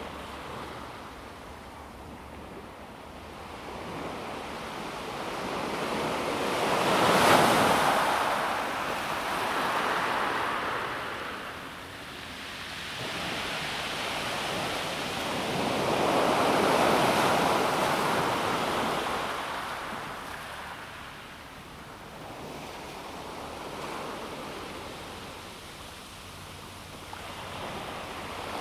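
Calm sea waves breaking and washing over a pebble beach in slow surges that rise and fade every several seconds; the loudest break comes about a quarter of the way in.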